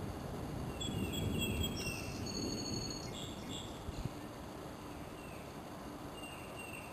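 Small birds chirping: a quick run of short high whistled notes in the first few seconds, then a few scattered notes that slur downward. A low rumble of wind noise sits underneath and eases after about three seconds.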